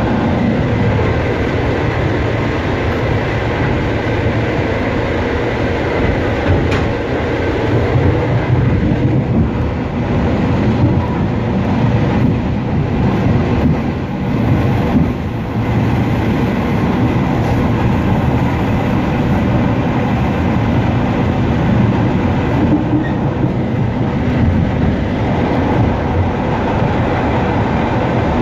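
Suburban electric train (elektrichka) running at speed, heard from inside its vestibule: a loud, steady rumble of wheels on rails with a faint steady whine over it.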